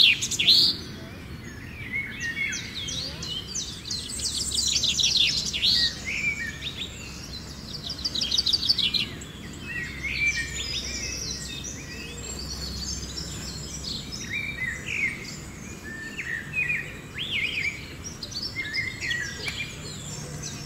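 Several birds singing and calling at once: rapid trills and short chirps overlapping. The loudest bouts of trilling come at the start, about four seconds in and about eight seconds in.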